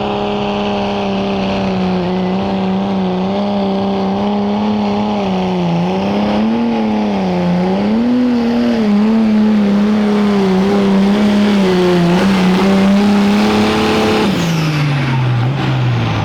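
Pulling vehicle's engine held at high revs through a pull, its pitch wavering up and down partway through as the load bites, then falling away near the end as the run finishes and the engine comes off the throttle.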